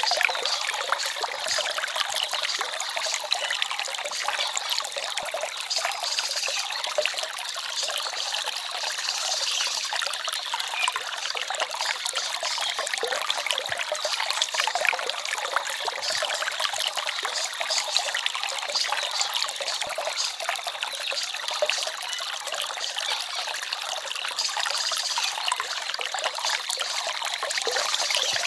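Small forest stream babbling and trickling steadily, a bright, splashy water sound with little deep rumble.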